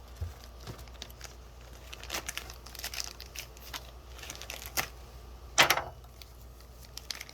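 Plastic packaging crinkling as it is handled, with scattered light clicks, and one louder rustle about five and a half seconds in.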